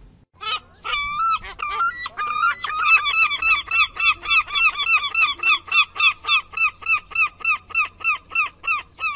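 A bird calling a long run of short, evenly repeated notes, about three a second after a few irregular opening calls, growing fainter near the end.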